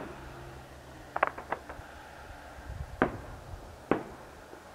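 Distant fireworks shells bursting: a quick cluster of about four bangs a little over a second in, then two single bangs about a second apart near the end.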